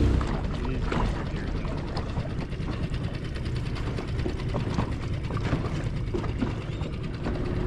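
Small boat's outboard motor throttled back to a low idle, a steady low rumble with a rapid ticking patter.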